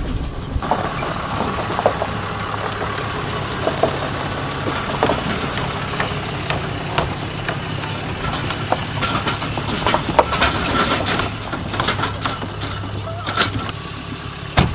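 Vehicle engine idling steadily while a horse's hooves knock and clatter irregularly on a horse trailer's floor as the horse is unloaded.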